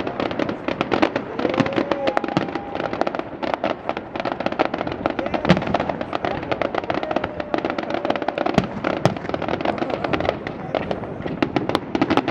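Fireworks display: a dense, unbroken run of crackles and bangs from bursting shells, with a faint pitched whistle gliding through it about two seconds in.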